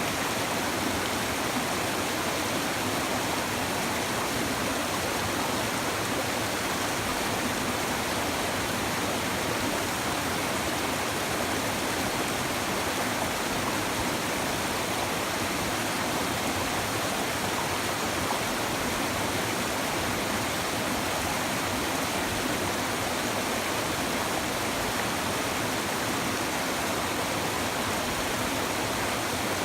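A shallow stream babbling and rushing steadily over its bed, an even, unbroken flow of water with no changes.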